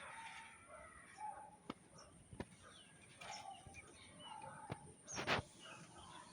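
Birds calling and chirping in short, scattered calls, with a few sharp clicks and a brief loud burst of noise about five seconds in.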